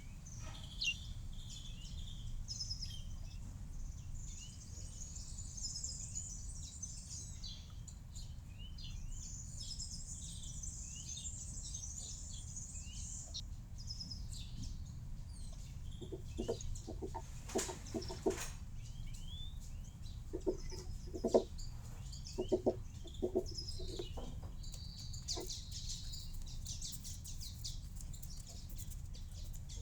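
Small birds chirping and twittering at a garden feeder, with a run of short, lower calls in the middle, over a steady low background rumble.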